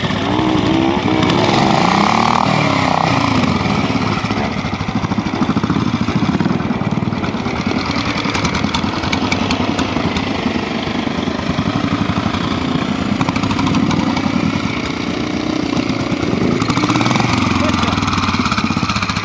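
Matchless single-cylinder four-stroke trials motorcycle working at low speed through a rocky section, its revs rising and falling as the throttle is opened and closed, with bursts of revving near the start and again near the end.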